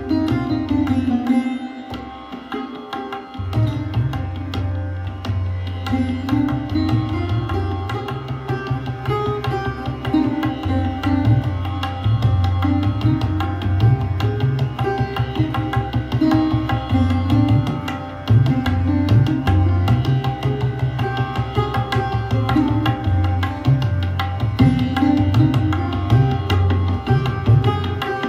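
Sarod played in rapid plucked strokes, with tabla accompanying. The tabla drops out briefly about two seconds in, then comes back.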